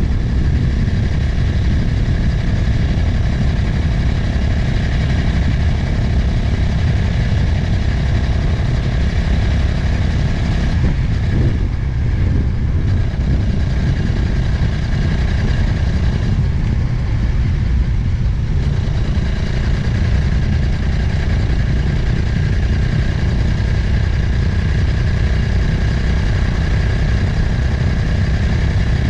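Motorcycle engine running at a steady road speed, with heavy wind rush on the helmet-mounted microphone; the engine note eases twice in the middle.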